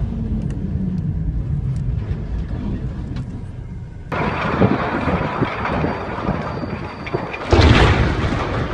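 Vehicle road and engine noise: a low steady rumble that switches abruptly to louder, noisier traffic sound about four seconds in, with a loud noisy burst near the end.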